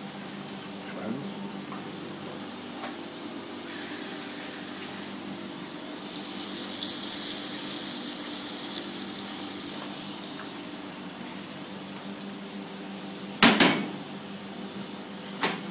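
Rump steak sizzling as it sears in a hot pan of oil and butter: a steady frying hiss over a steady low hum. Two sharp knocks come near the end.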